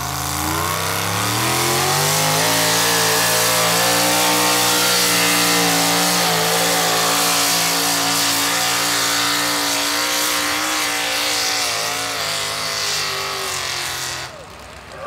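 Four-wheel-drive pulling truck's engine revving up over the first two seconds and held at high revs under load during a competition pull. The pitch sags slightly near the end, and the engine then drops off abruptly as the pull ends.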